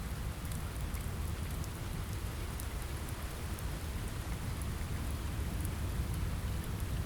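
Steady rain on a window: an even hiss over a deep rumble, with scattered faint ticks.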